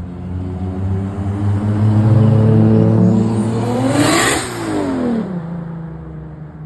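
A car approaching and passing close by, its engine note building and then dropping in pitch as it goes past about four seconds in.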